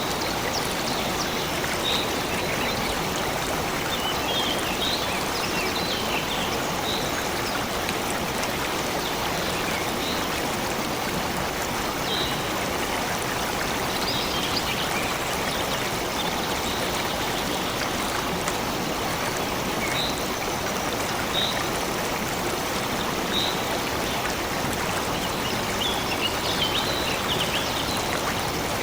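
A stream flowing steadily, with short high bird chirps coming every second or two and a few quick flurries of them.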